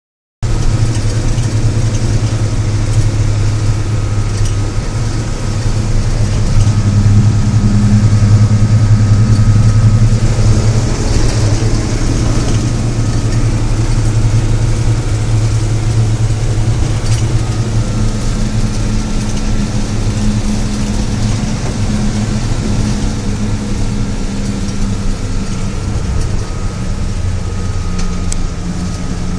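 GAZ-66 truck's rebuilt V8 petrol engine idling steadily, the sound dominated by its engine cooling fan running. A steady low drone that swells slightly for a few seconds.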